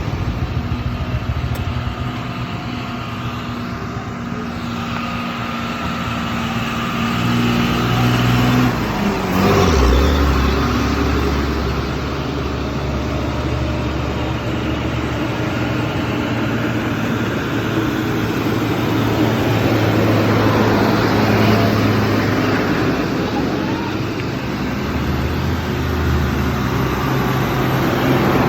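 TVS Ntorq scooter's single-cylinder engine running under way, with wind and road noise. The low engine hum shifts in pitch and grows louder about a third of the way in, then holds steady.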